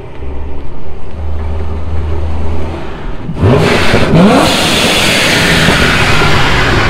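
C7 Corvette's V8 engine driving up: a low rumble at first, then about three and a half seconds in the engine is revved hard, rising in pitch twice in quick succession, and runs loud to the end.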